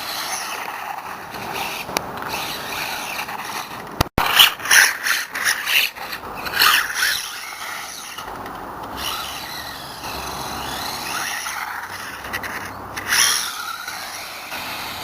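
Brushless-powered 1/18 RC monster truck (WLtoys A979B, 4370kv motor on 3S) being driven in bursts of throttle: the motor whine rises and falls while the tyres and chassis scrape and rub over the ground. There is a sharp click about four seconds in, then the busiest burst of driving until about seven seconds in, and another burst near the end.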